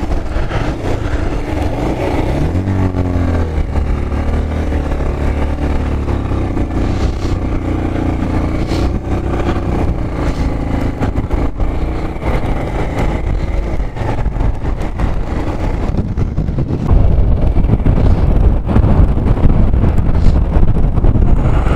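Motorcycle engine labouring up a very steep climb, with the bike struggling to pull. Its note rises a few seconds in and then holds steady. A louder low rumble takes over for the last few seconds.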